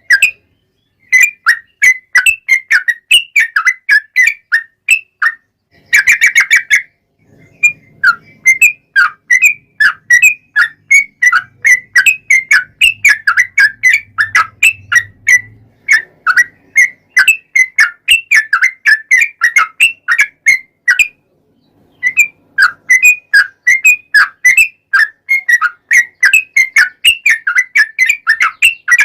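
Yellow-vented bulbul (trucukan) singing long, rapid runs of short bubbly notes, broken by a few short pauses.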